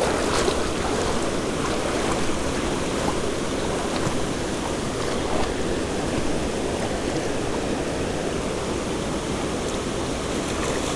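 Creek water rushing steadily, an even noise with no changes, with a few faint ticks.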